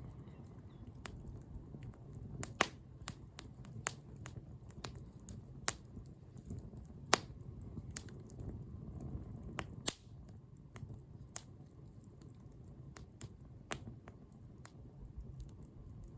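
Wood bonfire crackling: irregular sharp pops over a low, steady rumble of the flames, the loudest pops about two and a half, seven and ten seconds in.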